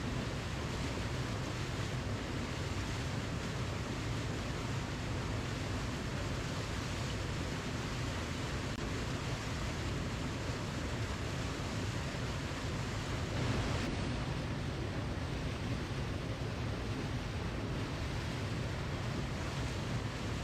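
Waterfall rushing: a steady, even roar of falling water, with a brief swell about two-thirds of the way through.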